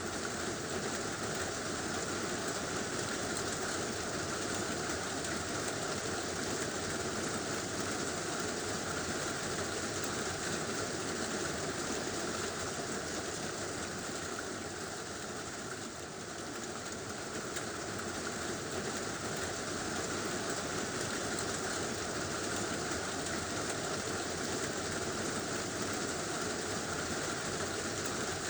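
Heavy rain drumming steadily on a tin roof, a dense, even patter that dips briefly about halfway through.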